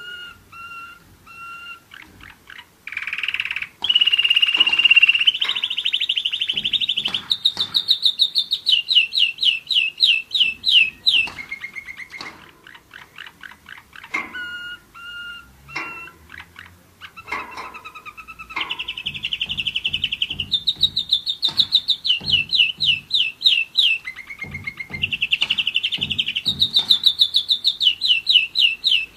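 German roller-split canary singing. Its song comes in long phrases of short repeated notes, sustained rolling trills and quick runs of falling notes, about five a second, with a brief pause around the middle.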